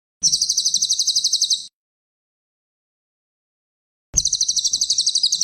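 A cililin songbird singing a fast, high, even trill of about ten notes a second, in two phrases each about a second and a half long; the second begins about four seconds in.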